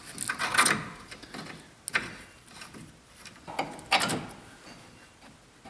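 Metal brake parts being handled and fitted: brake pads and caliper scraping and clinking into place, in three short bursts with a sharp click about two seconds in.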